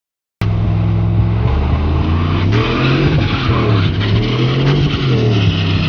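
Truck engine running with its revs rising and falling several times over a loud hiss of tyre and road noise. It cuts in abruptly about half a second in.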